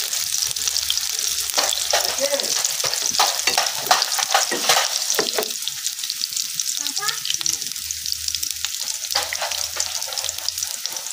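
Sliced shallots and garlic sizzling in hot oil in a frying pan, stirred with a wooden spatula that scrapes and taps against the pan. The spatula strokes come thickly at first and thin out in the second half while the sizzling goes on.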